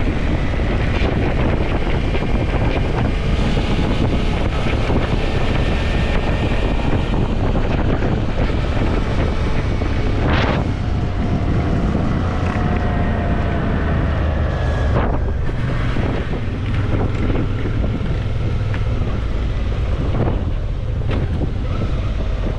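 Heavy wind buffeting the microphone of a Suzuki V-Strom motorcycle ridden at speed, over a steady low rumble, with a few faint clicks.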